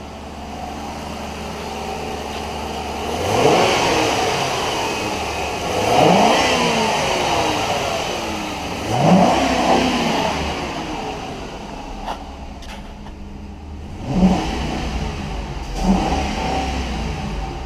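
2011 Ford Crown Victoria's 4.6L V8 engine idling and being revved: three longer revs that climb and fall back to idle, then after a pause three quick blips of the throttle.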